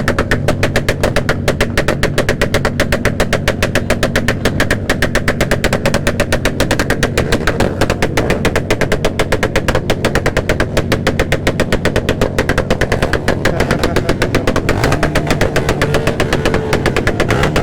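Motorcycle engine idling close by: a fast, even chugging of about eight or nine sharp pulses a second, with each firing heard separately.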